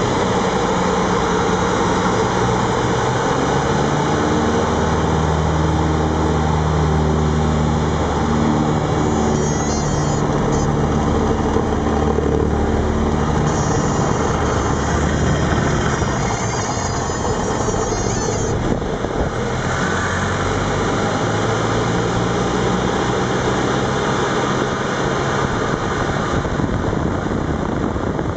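A Cessna 172's piston engine and propeller heard from inside the cockpit under heavy wind rush. The engine note shifts up and down in pitch as power changes through spin entry and recovery.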